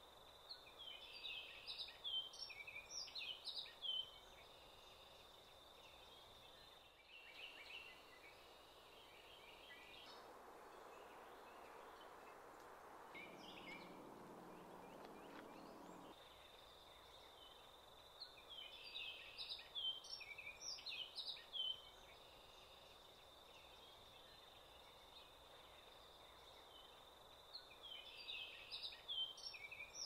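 Songbird singing in several bursts of rapid, chirping high phrases over a steady thin high-pitched tone and a faint outdoor hush.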